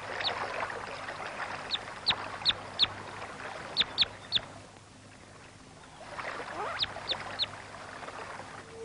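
Small birds calling: short, sharp chirps that sweep downward, in scattered groups of two or three, over a steady hiss that fades about five seconds in and then returns.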